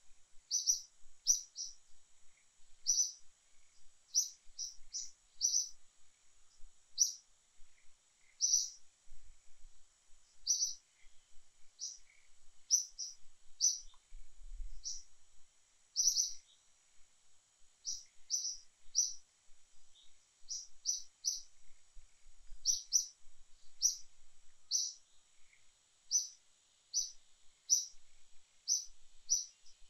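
A bird chirping over and over: short, high, sharp chirps, one or two a second at irregular spacing, over a faint steady high hiss.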